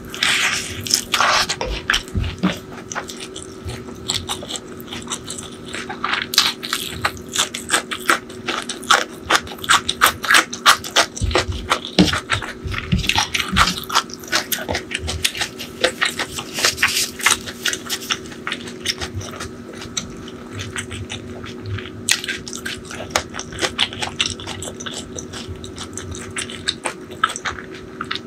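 Close-miked chewing of a hand-fed mouthful of rice and crispy fried topping, with dense crunching crackles throughout.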